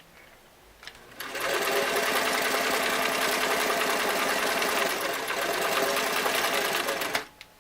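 Singer Model 337 sewing machine running a zigzag stitch through two layers of heavy denim. It starts about a second in, runs steadily for about six seconds and stops shortly before the end, followed by a couple of clicks.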